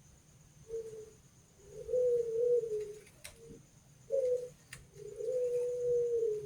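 Barbary dove (burung puter) cooing: a short note followed by a long, drawn-out low coo, and the pair comes twice. A couple of faint clicks fall between the calls.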